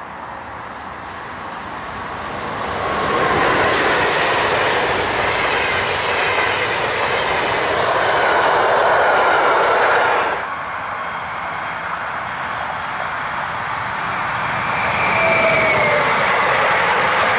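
Railway train passing: a steady rush of wheels on rails that builds over the first few seconds, with faint high whining tones above it. The noise drops suddenly about ten seconds in, then builds again near the end with thin high tones.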